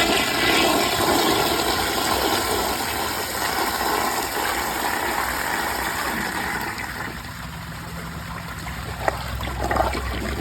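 2018 Mansfield Summit dual-flush toilet flushing from a tank filled to the water line, its siphon jet partially blocked: a sharp click as it is flushed, then a loud rush of water that tapers off over about six seconds. A low steady hum comes in after about seven seconds, with a couple of small clicks near the end.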